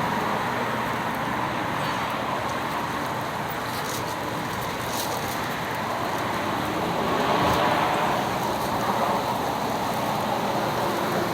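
Steady background traffic noise, swelling briefly about two-thirds of the way in.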